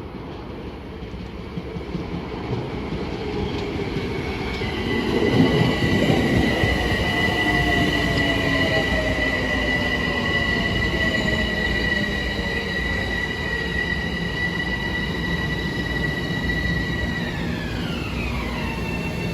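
Metro-North commuter train pulling into the station, its rumble growing about five seconds in. A steady high-pitched whine sets in at the same time, holds, then drops sharply in pitch near the end as the train slows.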